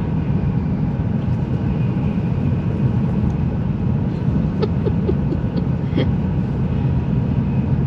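Steady low rumble of a Shinkansen bullet train's passenger cabin at speed, with a few faint clicks about halfway through.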